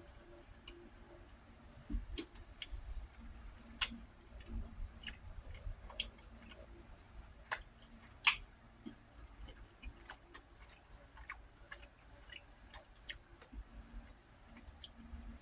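A person eating close to the microphone: chewing, with scattered sharp mouth clicks and smacks and a brief hiss about two seconds in.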